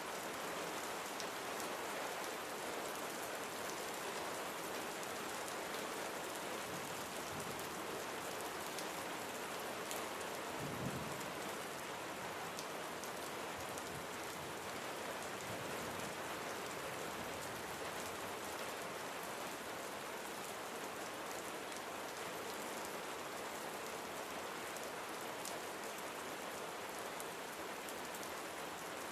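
Steady rain falling and pattering on surfaces, an even, unbroken hiss of drops, with one brief low rumble about eleven seconds in.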